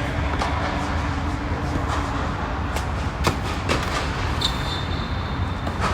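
Tennis balls being struck and bounced on the court: a few sharp pops, the loudest about three seconds in, with others roughly half a second apart. Under them is a steady low rumble of wind on the microphone, and a thin high tone is held briefly near the end.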